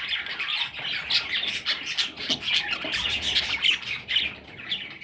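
Budgerigars chirping and squawking: a rapid, continuous stream of short, scratchy calls.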